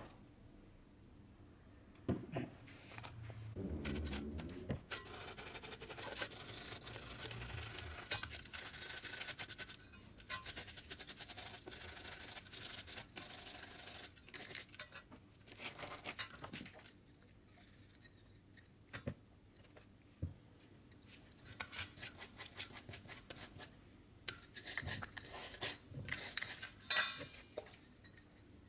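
Small metal carburetor parts being cleaned and handled: a long stretch of rubbing and hiss over about ten seconds, then a quick run of light metallic clicks and clinks near the end.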